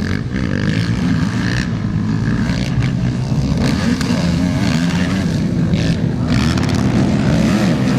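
Several motocross dirt bikes racing, their engines revving up and down over one another.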